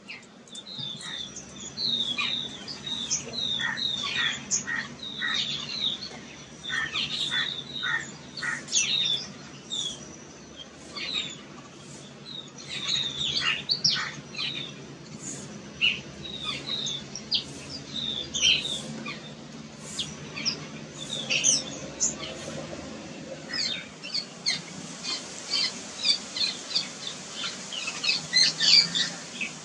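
Jungle babbler calls, loud and demanding: a long run of short, sharp, high chirps, a few a second throughout, loudest near the end. These are the calls of a young bird still fed by its parents.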